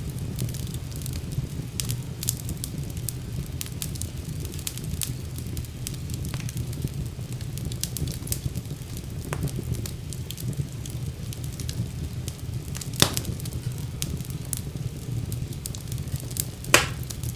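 Wood fire burning in a fireplace: a steady low rumble of the flames with scattered crackles and pops, two of them louder, one about two-thirds of the way through and one near the end.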